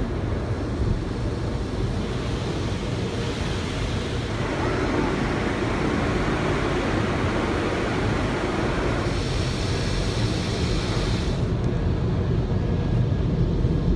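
Automatic car wash working over the car, heard from inside the cabin: a steady rushing of water spray and washing flaps on the body. It swells about four seconds in, turns brighter and hissier around nine seconds, then the hiss drops away near the end.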